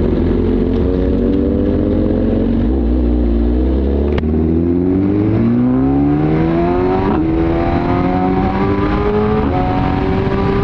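Suzuki GSX-R1000R inline-four with an Arrow exhaust accelerating hard, its pitch climbing, with quick upshifts about 7 and 9.5 seconds in, over heavy wind rush.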